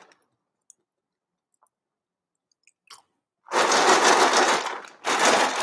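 Crunching as oven-roasted chickpeas are chewed, crisp and dry from roasting. It is loud and starts about three and a half seconds in, in two spells with a short break between them.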